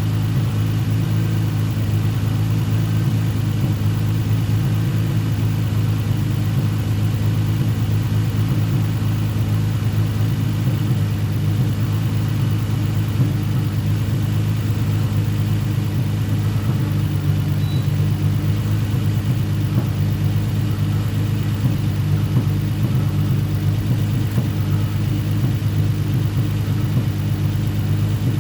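Nissan 350Z's 3.5-litre V6 idling steadily, with an even, unbroken note; after the coil swap and spark plug work the owner judges the misfire gone.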